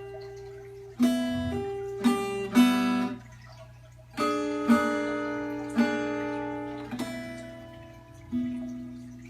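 Acoustic guitar playing slow closing chords, about eight strikes, each ringing out and fading before the next.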